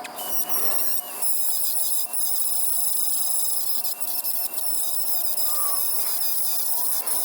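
High-speed rotary grinding tool cutting into steel, with a steady high-pitched whine over a gritty grinding noise: cutting old welds loose on a hydraulic door-opener cylinder.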